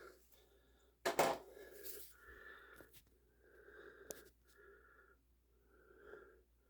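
A person's breathing, with a light wheeze, in a series of short breaths. About a second in there is a loud brief rustling knock, and around four seconds a sharp click.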